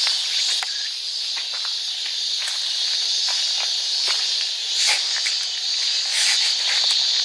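A dense, steady chorus of late-summer insects chirring at a high pitch, with scattered small clicks and rustles.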